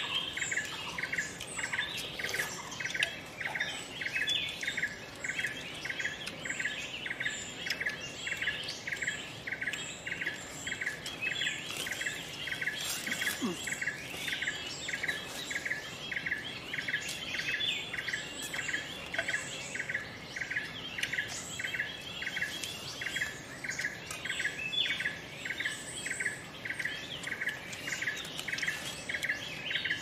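Forest birds calling, one of them repeating a short note in a steady, even series while others chirp higher over it.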